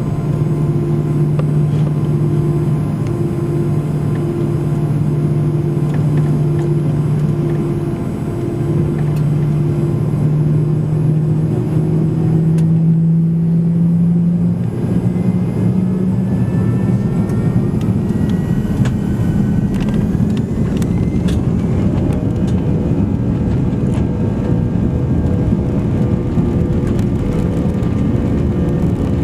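Airbus A340-300 cabin sound with the four CFM56 engines heard from inside: a steady low hum at first, then about a third of the way in the engine tone rises in pitch and a broad rush builds as the engines spool up for the takeoff roll, with higher whining tones gliding upward past the middle.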